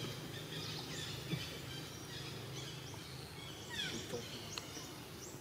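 Outdoor ambience with scattered short, high bird chirps and whistles, several falling in pitch, over a low steady hum.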